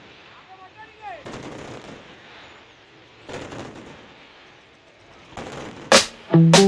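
Fireworks going off: clusters of crackling bangs every couple of seconds, with one louder sharp bang near the end. Music starts just before the end.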